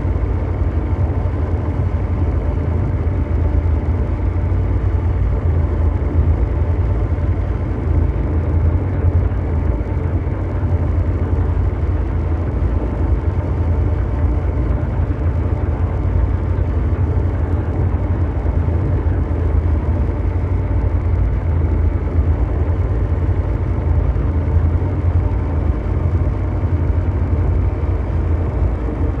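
Ambient mechanical drone noise: a steady, engine-like rumble heaviest in the deep bass, with a few faint steady hum tones above it.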